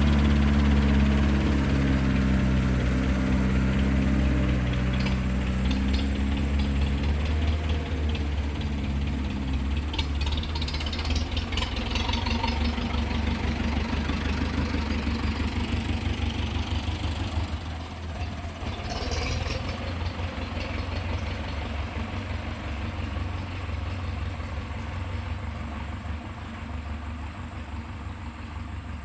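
Heavy vehicle engine running steadily. Its low hum is strongest at first and gradually grows quieter.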